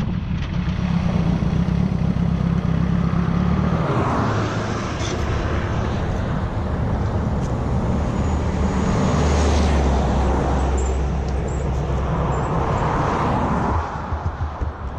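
Motorcycle engine running steadily at road speed, with wind rushing over the microphone; about fourteen seconds in the sound drops and turns uneven.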